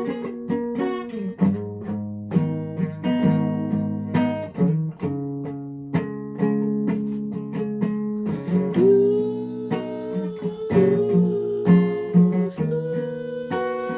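Acoustic guitar played in an instrumental passage: plucked notes and strummed chords, with one long held note wavering in pitch for a few seconds past the middle.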